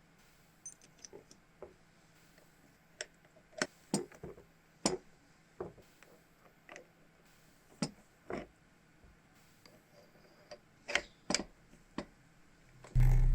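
Scattered sharp clicks and taps of hand tools and small metal parts being handled in workshop restoration work. A loud low hum starts suddenly at the very end.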